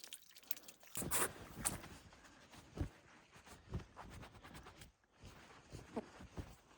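Wet, soapy hands being rubbed together, giving irregular soft squelches and rustles with a few brief louder smacks.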